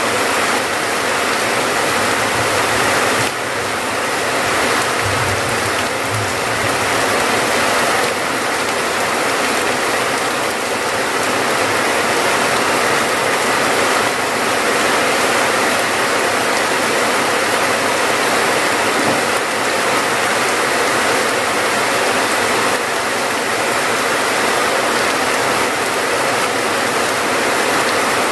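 Steady, heavy rain: a dense, even hiss of falling drops.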